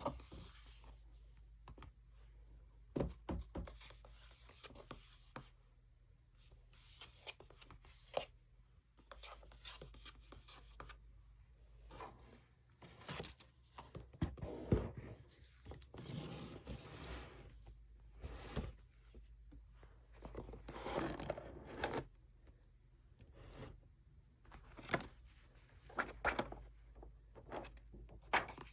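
Fingernails tapping and scratching on makeup packaging as ASMR triggers: irregular sharp taps, with stretches of scratchy rustling in between and one louder knock about halfway through. A faint steady hum sits underneath.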